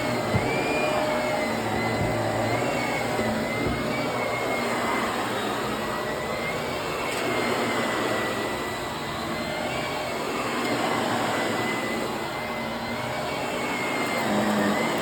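Upright vacuum cleaner running on carpet, a steady motor noise with a thin whine that rises and falls slightly in pitch as it is worked over the pile.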